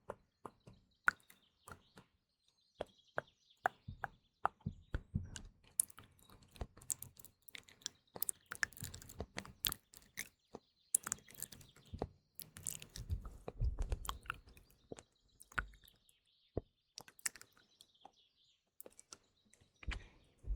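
ASMR mouth sounds close to the microphone: many quick, irregular wet clicks and smacks. Faint morning birdsong chirps in the background.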